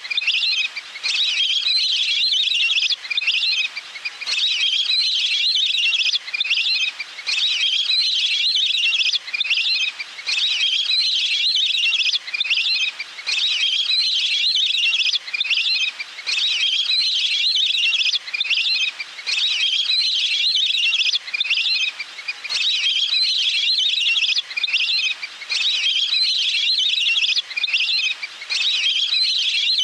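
Wild duck calls played as a lure recording: high, trilling whistled phrases about three seconds long, repeated at an even pace with short gaps between them.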